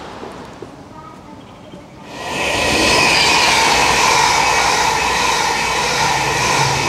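A Chiltern Railways passenger train passing through the station, a loud steady rush of wheels and coaches on the rails that sets in about two seconds in, after a quieter stretch of ticket-hall background.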